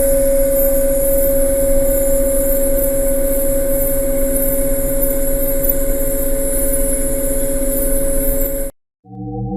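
A steady mechanical drone, engine-like, with a strong steady hum tone, that cuts off abruptly near the end; after a brief silence a layered set of slowly rising synthetic tones begins.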